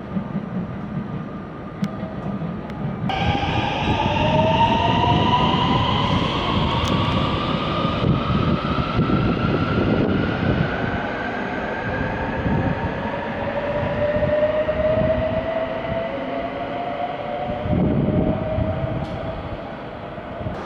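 Electric train pulling away, its traction motor whine rising steadily in pitch as it accelerates, over the rumble of wheels on the rails.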